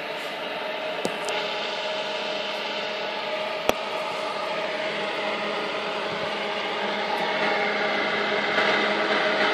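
Fully automatic egg incubator's electric fan motor running with a steady hum that slowly grows louder, with a sharp click about three and a half seconds in.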